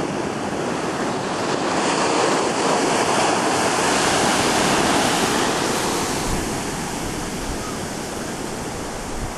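Ocean surf washing onto the shore, swelling to its loudest in the middle and easing off toward the end.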